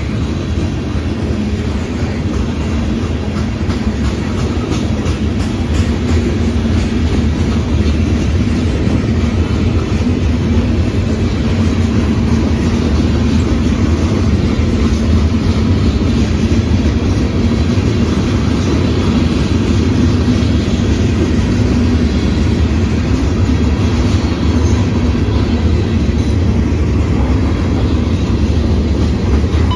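Train passing close by: a loud, steady rumble of railcars rolling over the rails, unbroken throughout.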